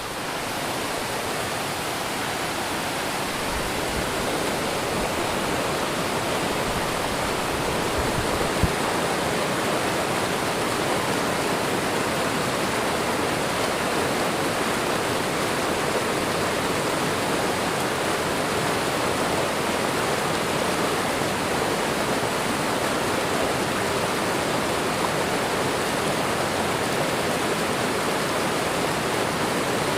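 Waterfall and running water rushing steadily, an even, unbroken roar of falling water. One brief low thump about nine seconds in.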